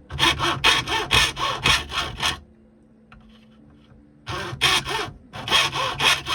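Quick back-and-forth rasping strokes of a doubled hacksaw blade, held at a fixed depth by a saw-back jig, cutting new teeth into a saw plate. About four strokes a second: a run of about nine, a pause of nearly two seconds, then two shorter runs.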